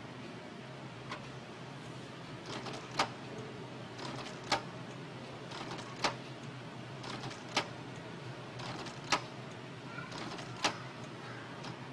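Canon G2000 inkjet printer mechanism running: a short mechanical whir followed by a sharp click, repeating about every one and a half seconds over a low steady hum.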